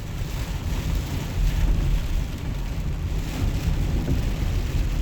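Truck driving on a wet road in heavy rain: a steady low rumble of engine and tyres under the hiss of rain and water spray off the road.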